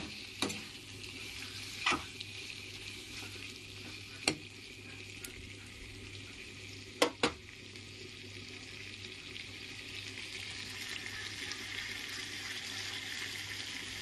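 Chicken pieces in thick masala sizzling in a metal wok, a steady frying hiss that grows a little louder in the second half. A metal ladle clinks against the pan a few times in the first half, twice in quick succession about seven seconds in.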